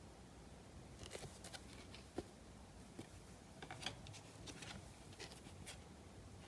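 Faint handling sounds of trading cards and their packs: a scatter of soft rustles and light clicks, with two sharper ticks, against a low room hum.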